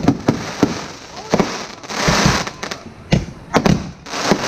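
Aerial fireworks bursting overhead: many sharp bangs in quick, irregular succession, with stretches of hiss between them.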